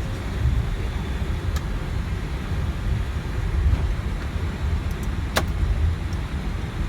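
Low, uneven rumble on the flightdeck of an Airbus A320 rolling on the ground after landing, with a faint click about one and a half seconds in and a sharper click a little past five seconds.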